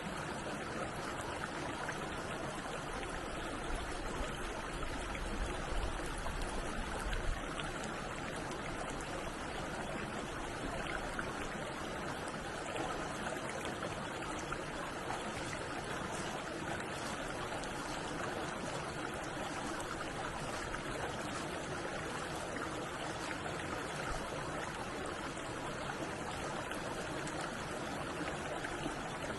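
Stream water flowing steadily, a continuous rushing and trickling. A low rumble sits under it from about three to seven seconds in.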